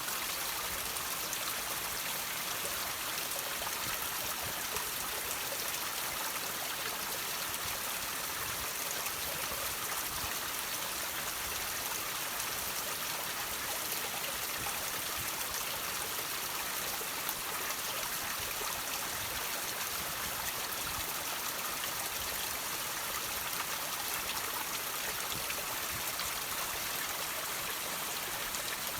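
Water trickling and dripping from rocks: a steady, even splashing hiss scattered with fine drips.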